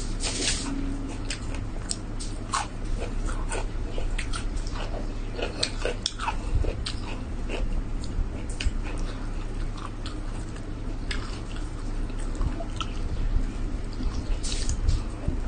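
Close-miked chewing and mouth noises of a person eating rice and chicken by hand, with many short, wet clicks and smacks scattered irregularly over a steady low hum.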